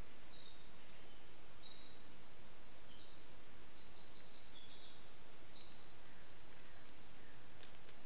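A songbird singing phrases of rapid, high repeated notes over a steady background hiss.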